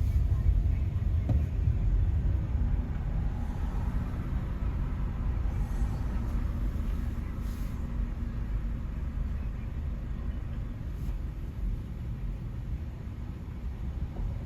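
Steady low rumble of car engines and road traffic, with a faint engine hum that comes up about three seconds in and fades a few seconds later.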